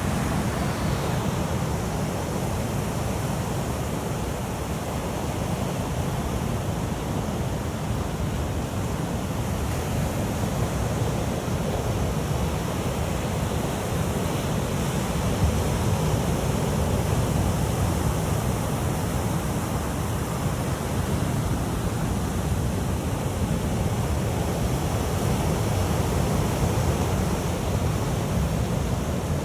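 Sea waves washing on the shore, a steady noise with wind buffeting the microphone.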